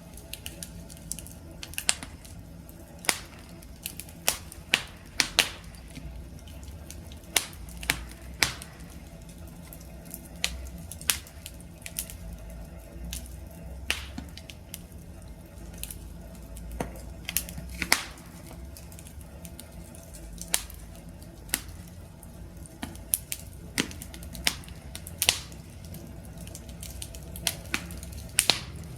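Wood campfire crackling: irregular sharp pops and snaps from the burning wood, about one or two a second, over a low, steady noise of the flames.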